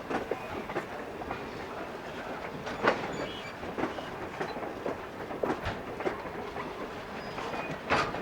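Train cars rolling along the track, with steady wheel rumble and irregular clicks and clanks over the rail joints; two sharper clanks come about three seconds in and near the end.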